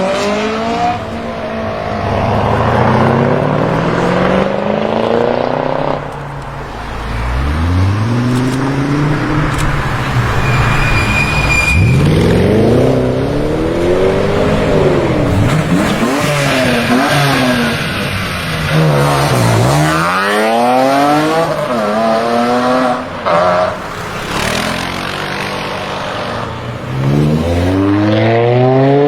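High-performance BMW engines revving and accelerating hard, the engine note climbing steeply and falling back again several times.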